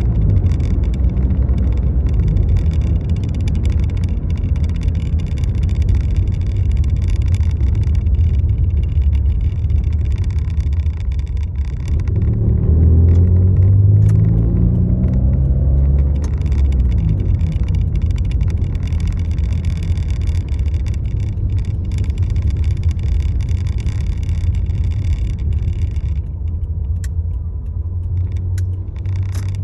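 Steady low rumble of a motor vehicle, with the engine note rising and falling between about twelve and sixteen seconds in.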